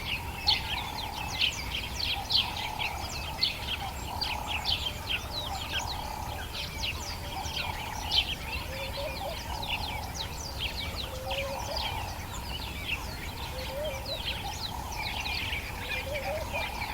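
Dawn chorus of many birds in the African bush, with rapid overlapping chirps and trills throughout and lower, rising calls mixed in. A steady low rumble lies underneath.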